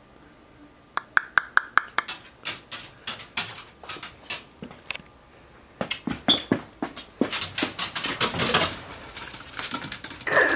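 A dog making a quick series of short, sharp clicks and taps, a few a second at first and coming faster and louder from about seven seconds in.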